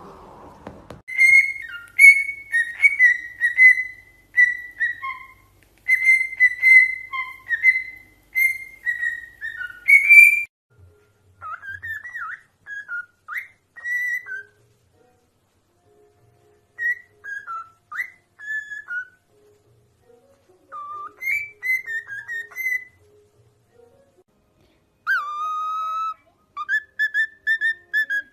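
A parrot whistling: quick runs of short, clear notes for about ten seconds, then scattered sliding whistles with silent gaps between them, and a longer held note near the end.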